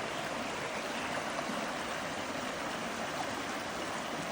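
Creek running high with storm run-off, an even, steady rush of flowing water.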